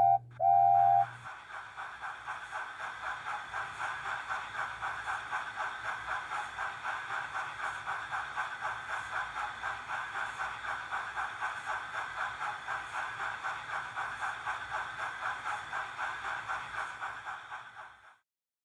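Two short whistle peeps, then a steam locomotive's chuffing, even at about four puffs a second, which fades out near the end.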